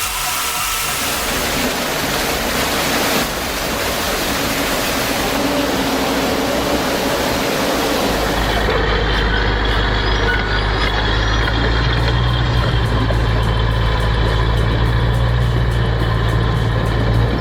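Heavy machinery running. A diesel engine sound is noisy at first, then after a cut about nine seconds in becomes a steady, deeper engine drone with fast, evenly spaced clicking.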